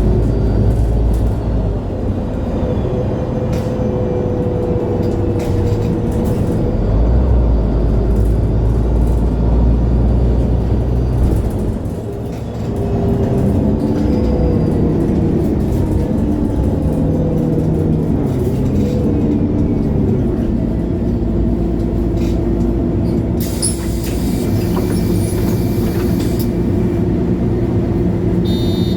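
MAN Lion's City G articulated city bus's diesel engine pulling away and accelerating, its pitch rising through the gears, heard from inside the bus. A hiss of compressed air sounds for about two seconds, late on.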